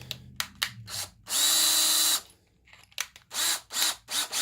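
Cordless drill running for about a second, then three short blips of the trigger, each spinning up and down, boring a starter hole for a screw in soft pine. A few light clicks come before it.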